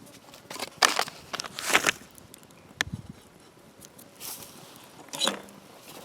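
Short scraping and rustling handling noises from food preparation, four or five brief bursts with a sharp click near the middle.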